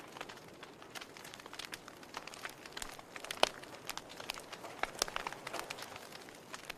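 Wood fire burning in a fireplace: irregular sharp crackles and pops from the burning logs over a soft hiss, with one louder pop about three and a half seconds in.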